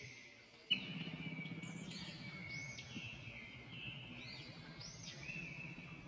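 Birdsong: quick chirps that rise and fall in arches, repeated in short phrases, over a low steady background noise that comes in with a click about a second in.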